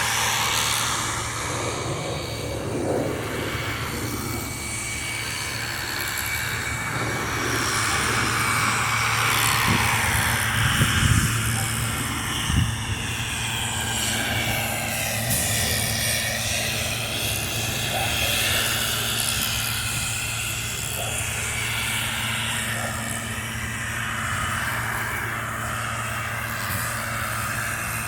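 Continuous engine noise with a steady low hum under a broad rushing sound; curved sweeps through it around the middle, as of something moving past, and a few short knocks about halfway through.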